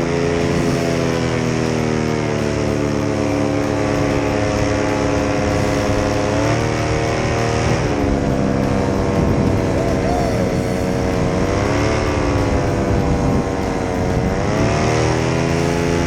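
Blackhawk Black Devil 172 paramotor's single-cylinder two-stroke engine and propeller running steadily, its pitch dipping and rising again several times as the throttle is eased and opened.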